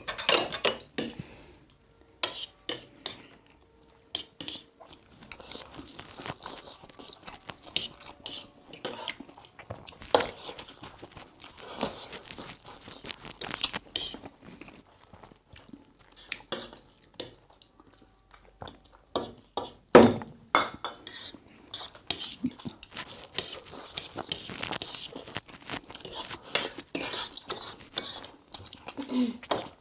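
Hurried eating: cutlery clinking and scraping against a plate in quick, irregular strokes, with chewing.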